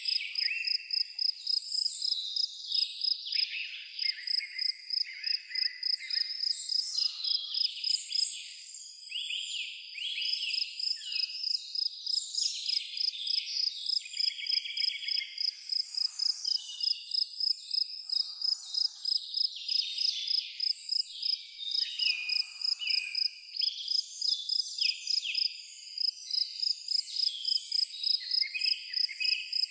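Birds singing and calling in a busy chorus of varied chirps and trills, over a steady high-pitched chirp that repeats about twice a second.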